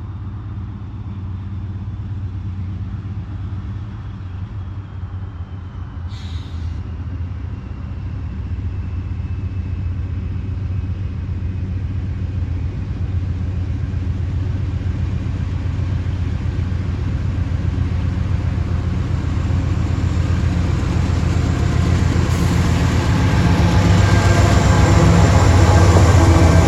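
Diesel locomotives hauling a Norfolk Southern intermodal train approach, their low engine drone growing steadily louder; near the end, wheel and rail noise rises over it.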